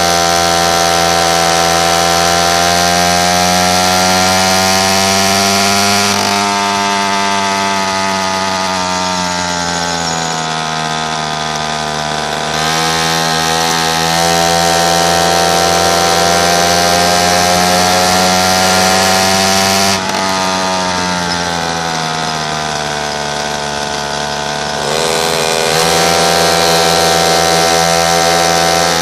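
Pocket bike's small engine running hard under throttle. The throttle is eased off about six seconds in and again about twenty seconds in: the sound drops and the pitch sags, then it picks back up with the pitch climbing again.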